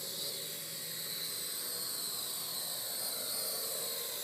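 Parrot AR.Drone 2.0 quadcopter hovering, its four brushless motors and propellers giving a steady high-pitched whine that wavers a little in pitch as the height is adjusted.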